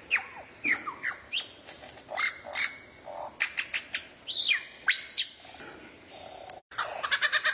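Songbird calling: sharp whistled notes that slide down in pitch, mixed with short chirps and a quick run of clicks. Near the end the sound breaks off for an instant, then a fast, even trill starts.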